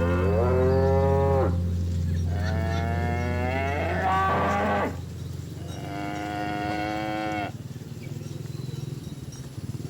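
Cows mooing: three long moos in turn, the first rising in pitch, over a steady low hum.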